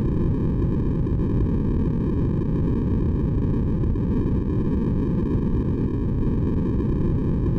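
Steady, unchanging generated noise for sleeping babies, deep in tone with most of its weight low down, like a soft whoosh.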